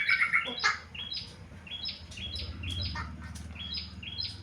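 Yellow-vented bulbul (trucuk) calling: short, bright chirping phrases, each note stepping up in pitch, repeated about twice a second, over a faint steady low hum.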